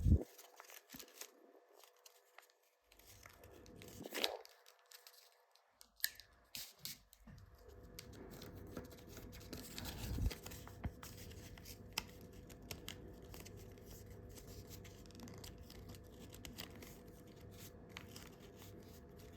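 A sheet of A4 paper rustling and crinkling faintly as it is pinched, slid and creased by hand while folding, with a few louder crinkles about four and ten seconds in.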